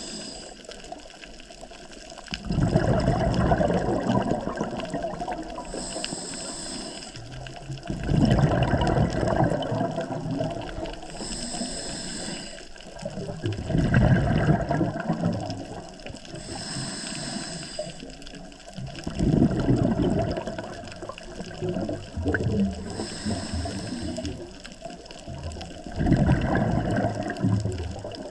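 A scuba diver breathing through a regulator underwater. A short hiss of inhaling alternates with a gurgling rush of exhaled bubbles, about every five to six seconds, and there are five exhalations in all.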